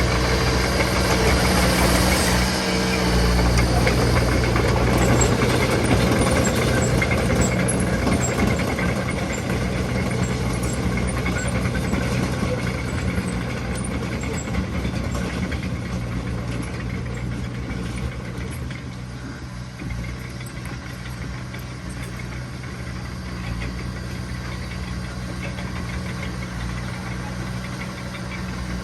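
Diesel engine of heavy earthmoving machinery running steadily. It is louder for the first ten seconds or so, then gradually quieter and even from about twenty seconds in.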